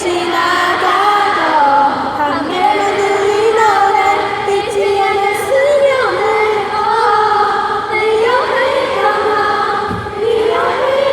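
A large concert crowd of mostly female fans singing a song together in unison, many voices blending like a choir.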